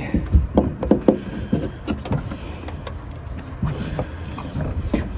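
Scattered knocks and clicks as a Honda Odyssey sliding door's roller assembly is worked by hand out of its mounting.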